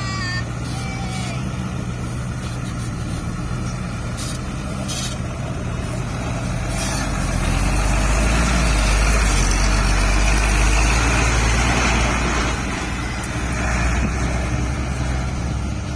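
Dump truck's diesel engine running steadily. It grows louder for several seconds in the middle, with a deep rumble and a rushing noise, then drops back.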